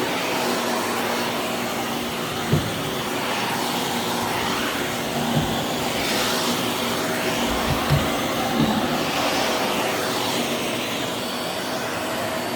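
Vacuum cleaner running steadily with a constant whine, its sound swelling and fading as it is pushed back and forth, with a few short knocks against the floor or furniture.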